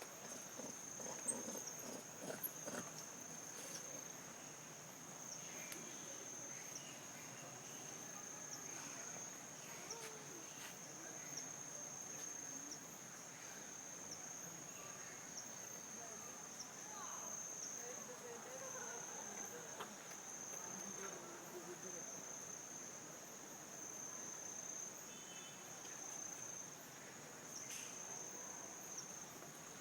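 Insects calling in a steady high-pitched drone, one unbroken tone with small brief dips, over a faint background of scattered soft sounds.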